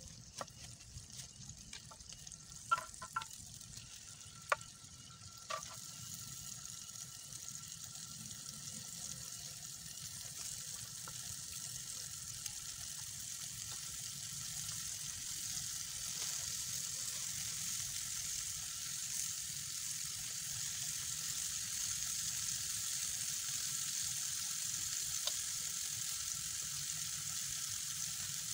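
Chili sambal frying in oil in a pan over a wood fire: a steady sizzle that grows gradually louder, with a few sharp clicks in the first several seconds.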